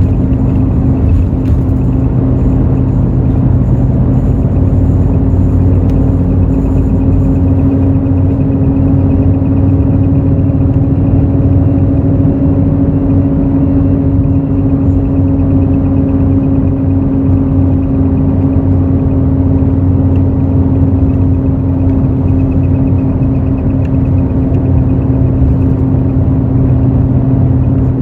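Hino J08E-VD inline-six diesel engine of a Hino RN8JSVU bus running steadily under way, heard from inside the cabin with road rumble. Its pitch rises slightly midway and eases back again.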